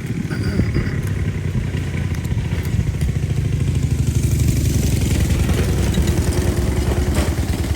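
Motorbike engine passing close, building up over the first second or two and easing off a little near the end.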